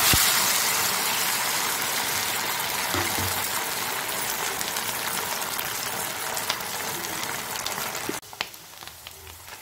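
A batch of taro (colocasia root) pieces dropped into hot oil all at once, then the oil sizzling and bubbling hard around them as they deep-fry. The sizzle drops abruptly to a quieter frying sound near the end.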